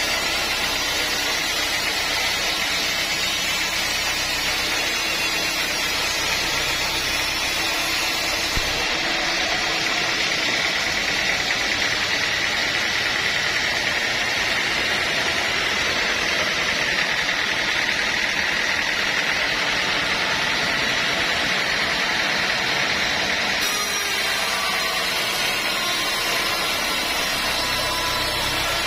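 Sawmill saw running continuously, a steady loud mechanical noise with a high whine that grows stronger in the middle.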